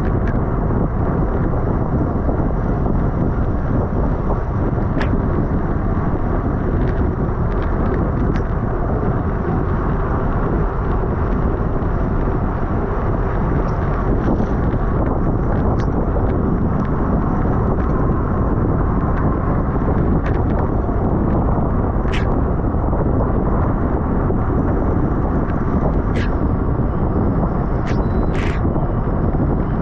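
Steady, loud wind rush over the microphone of a camera on a racing bicycle at speed, with a few brief clicks.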